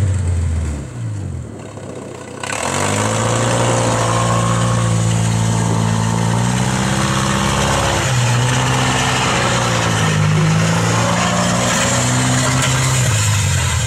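Stripped demolition-derby sedan's engine under hard throttle as the car is driven in the lot. Its note falls and dips in the first two seconds, revs up about two and a half seconds in, then holds high with the pitch rising and falling as it drives. This is a full-throttle test after a throttle return-spring adjustment, on a car that is slow to pick up and whose transmission the crew suspects.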